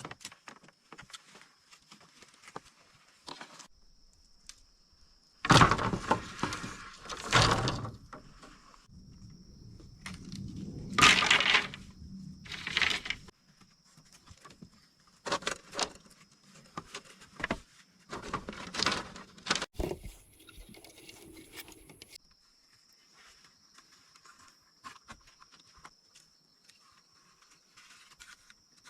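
Handwork noise: about eight loud, irregular bursts of rustling and knocking, clustered in the middle of the stretch, over a faint, steady, high-pitched insect drone.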